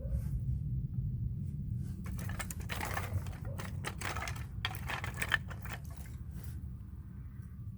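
Split oak firewood knocking and clattering as pieces are handled and stacked: a quick run of hard wooden clacks in the middle, over a steady low rumble.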